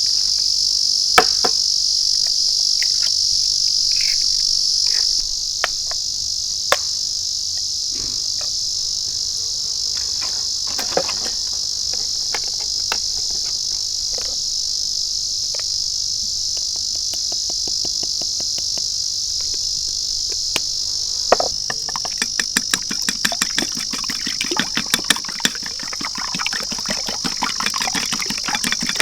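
A steady, high chorus of crickets chirring, with scattered sharp clicks and knocks that grow thick and rapid in the last several seconds.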